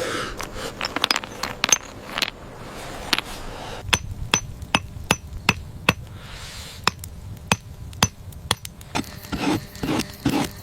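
Hard objects knocking and tapping together in an irregular run of sharp strikes, several a second, some ringing briefly, with scraping between them.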